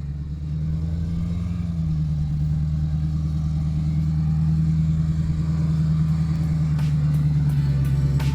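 2003 Land Rover Discovery 2's engine running steadily at low speed while crawling over an off-road trail, its low drone growing gradually louder. A few faint clicks come near the end.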